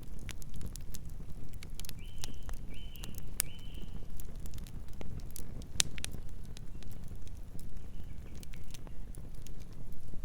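Campfire crackling and popping in irregular sharp snaps over a steady low rumble. Three short high chirps sound in quick succession about two seconds in.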